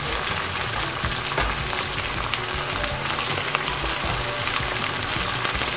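Raw beef pieces and sliced onions sizzling in hot mustard oil in a pan: a steady crackling fry. Faint background music plays under it.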